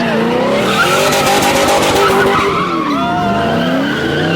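Cars drifting at a street takeover: engines revving up and down and tires squealing, several at once and overlapping.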